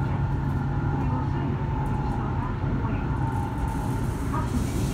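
Steady running noise heard inside the passenger cabin of a JR East E7 series shinkansen on the move: a constant low rumble with a faint steady whine above it, and a short rise in hiss near the end.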